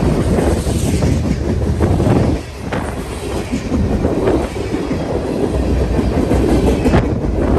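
A train passing close by, its wheels rolling over the rails with a loud, steady rumble and a few sharp clacks.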